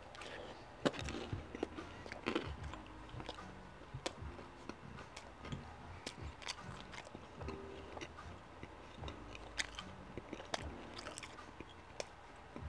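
Close-miked chewing of a mouthful of stuffed-crust pepperoni pizza: irregular wet smacks and mouth clicks.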